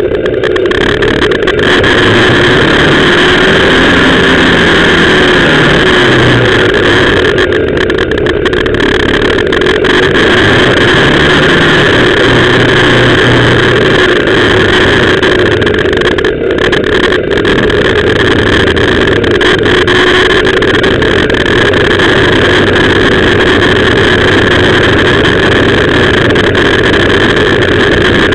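BMW R1200GS Adventure's flat-twin boxer engine running on the move, its pitch rising and falling a few times with the throttle, over a steady rush of wind and road noise.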